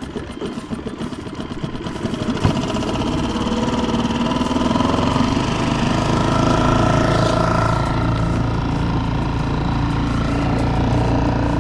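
Fishing boat's motor running, growing louder about two and a half seconds in and then holding a steady drone.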